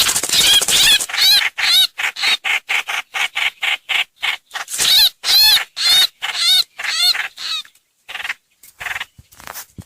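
Trao trảo (hoành hoạch) bird call recording used as a lure: a fast series of short, harsh, repeated calls, several a second, with arched ringing notes among them. The calls break off briefly near the end.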